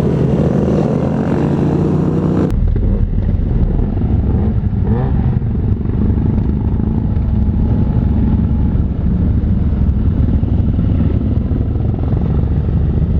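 Motorcycle engine running under way with wind rush on the microphone, steady throughout, with a short rising rev about five seconds in.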